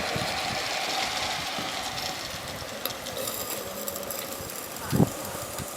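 A 16mm-scale live steam model locomotive running, its exhaust beats coming as a rapid, even chatter over a steady hiss. A single louder knock comes about five seconds in.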